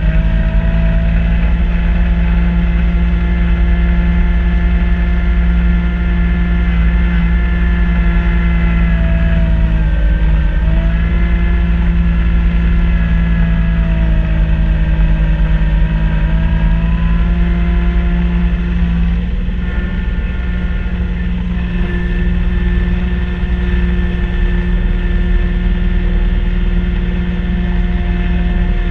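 Kubota B2650 compact tractor's three-cylinder diesel engine running steadily at working revs while driving a front-mount snow blower. Its pitch dips briefly about ten seconds in and shifts slightly about two-thirds of the way through.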